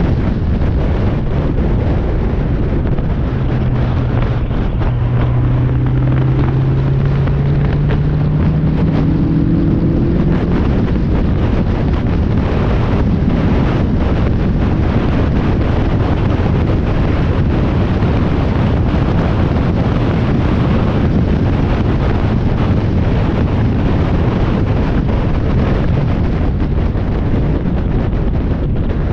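Spec Miata race car at speed, with heavy wind rushing over the microphone and road noise throughout. A few seconds in, the four-cylinder engine note climbs gradually for about six seconds under steady acceleration, then sinks back into the wind.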